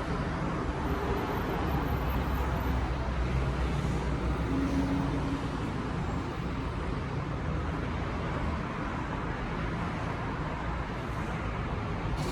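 Steady road traffic noise, a continuous rumble and hiss with faint engine hum.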